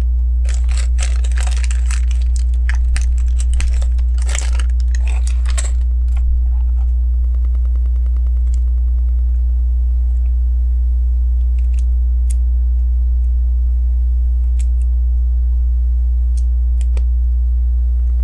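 Plastic Lego bricks rattling and clattering as pieces are rummaged through by hand for about the first six seconds, then only a few small sharp clicks as bricks are fitted together. A steady low hum runs underneath throughout.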